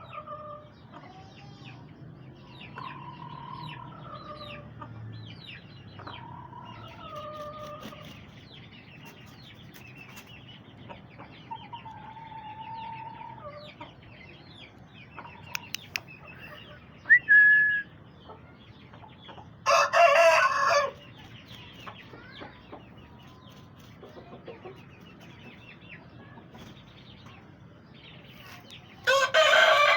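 Aseel roosters crowing twice, one loud crow about twenty seconds in and another near the end, with hens and chicks clucking and chirping throughout.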